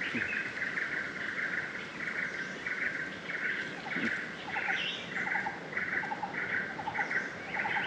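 Birds chirping in a steady rhythm, about two calls a second, with fainter lower notes in between.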